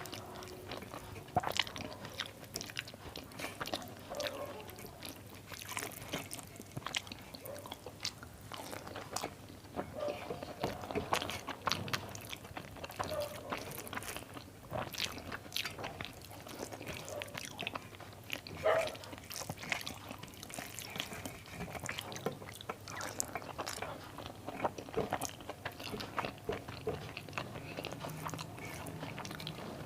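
A person eating close to the microphone: steady chewing with wet mouth and lip sounds and small clicks, and a sharper crunch about two-thirds of the way through.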